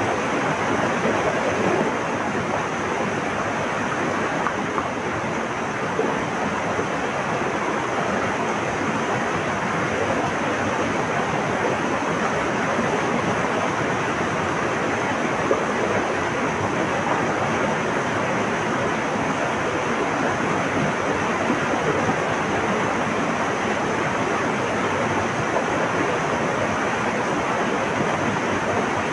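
Flowing water rushing steadily in an even, unbroken wash of noise.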